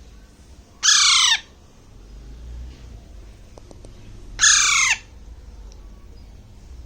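A young Alexandrine parakeet chick gives two harsh squawking calls about three and a half seconds apart. Each call lasts about half a second and falls in pitch.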